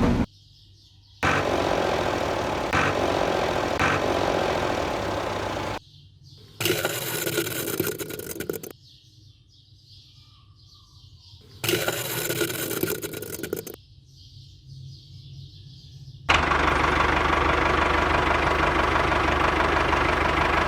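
A small engine running in several short clips, each starting and stopping abruptly, with quieter gaps between them.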